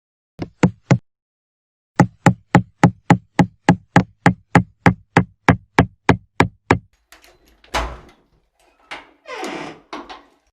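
Three sharp knocks, then an even run of about eighteen knocks on a hard surface, roughly three to four a second. They are followed by a heavier thud and some rustling and scraping near the end.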